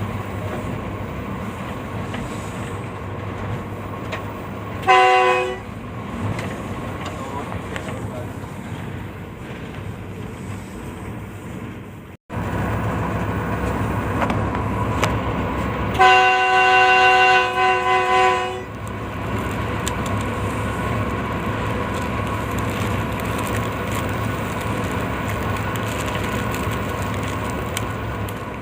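A train running with a steady rumble, its locomotive horn sounding a multi-tone chord: a short toot about five seconds in and a longer, slightly broken blast about sixteen seconds in.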